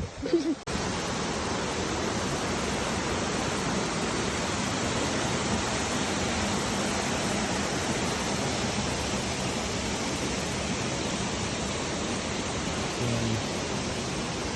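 Waterfall: a steady, dense rush of falling water that starts abruptly about a second in.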